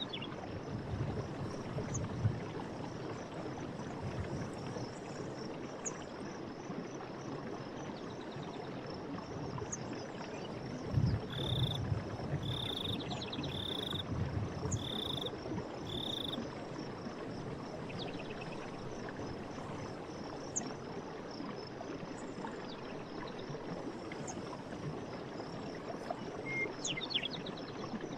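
Forest stream water running steadily, with birds chirping now and then, a run of five short calls in the middle, and a faint high steady trill behind them.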